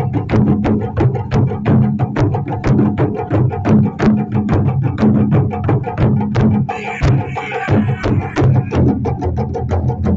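Japanese taiko drums played as an ensemble: a fast, steady rhythm of sharp strokes, about five a second, over a sustained low drum boom. A higher-pitched sound briefly joins about seven seconds in.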